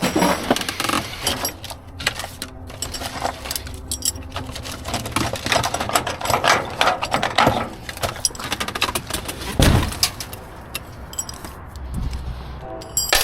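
Loose scrap metal clanking and rattling as pieces are shifted about in a dumpster: a continuous run of knocks, clinks and short metallic rings, with a heavier thump nearly ten seconds in.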